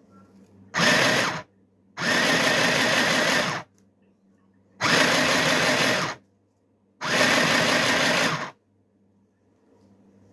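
Mini sewing machine running in four short bursts, each starting and stopping abruptly, the second and fourth the longest at about a second and a half.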